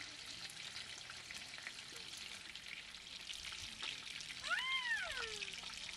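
Sausages sizzling and crackling steadily as they fry in a pan on a portable camp stove. About three-quarters of the way through, a short high call rises and then falls.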